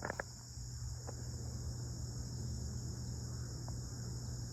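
Steady chorus of crickets: a continuous high trill over a low steady hum, with a few faint clicks near the start.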